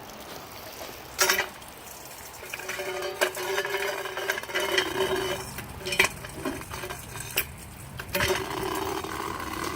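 Metal pots and kitchen utensils being handled: several sharp clanks, with a ringing, scraping sound between them.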